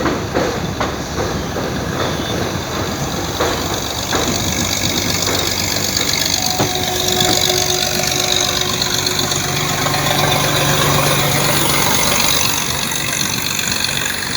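Train running over a river bridge, its wheels clacking over rail joints in the first few seconds, then a steady rushing rumble.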